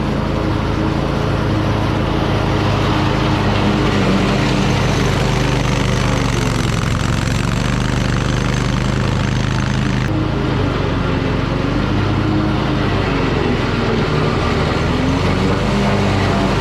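Toro Titan Max zero-turn mower's engine running steadily while mowing.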